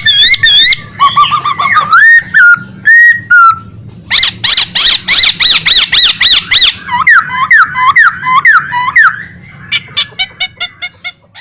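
Pet songbird singing loudly in full voice: varied runs of repeated whistled notes that swoop up and down, several to the second, broken by fast trills and sharp clicking notes, fading out near the end.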